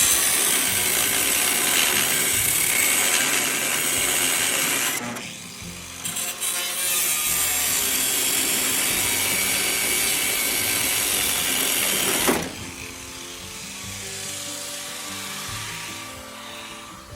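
A power tool running in two long runs of about five seconds each, with a short stop between them, over background music.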